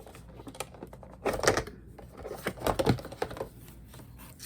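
Handling noise from a pet clipper kit's parts and packaging: two flurries of quick clicks and rustles, about a second in and again from about two and a half seconds in.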